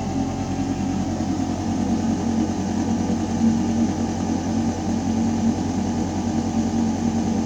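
Building ventilation system running: a steady low mechanical hum with air moving through metal ducting, a few steady low tones over an even rush of air.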